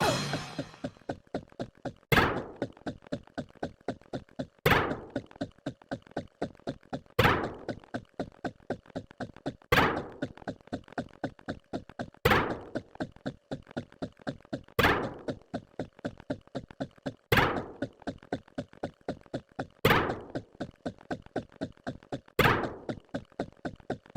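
A rapid, even run of short knock-like sound-effect hits, about four a second, with a louder hit that rings out briefly every two and a half seconds or so.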